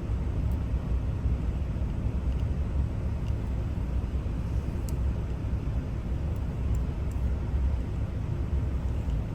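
Steady low rumble, with a few faint light clicks scattered through it.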